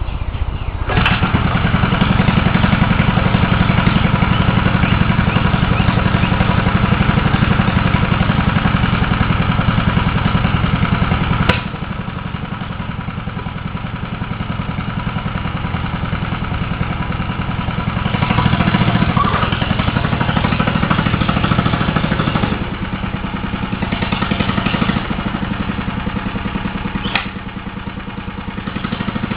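Old tractor's engine running hard under throttle. About a third of the way in it drops back suddenly with a sharp click, then picks up again and eases off near the end.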